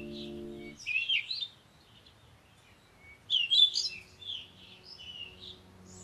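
Birds chirping and twittering in short, high, quick phrases, in several bursts. A held music chord cuts off under the first second.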